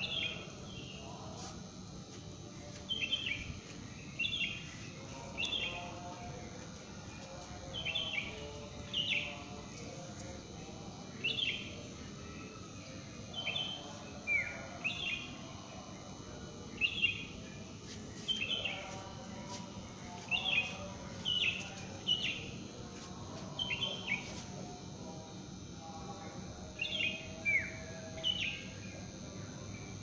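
A bird repeatedly giving short, sharp chirps that slide downward, often in pairs, one every second or two, over a steady low background.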